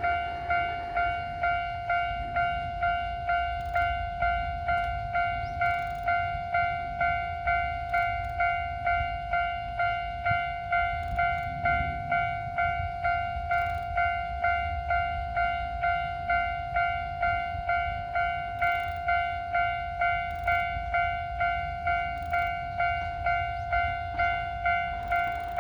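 Japanese level-crossing alarm bell ringing, an electronic ding repeating steadily a bit under twice a second, with a low rumble underneath.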